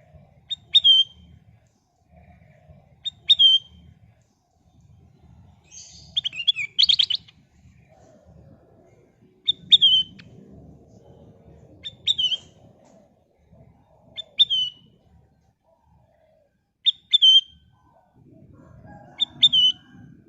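A kutilang emas (a bulbul) calling, a short sharp note sliding downward, repeated every two to three seconds, with one longer, more tumbling phrase about six seconds in. A faint low rumble runs beneath.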